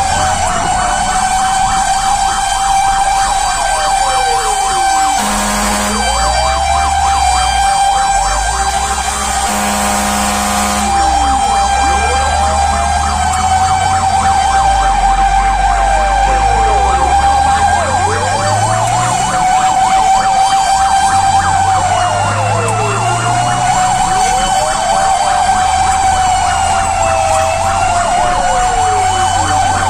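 Fire truck responding with sirens: one siren held on a steady high tone while another wails down and up over and over. Two short horn blasts come about 5 and 10 seconds in, and the truck's engine revs underneath.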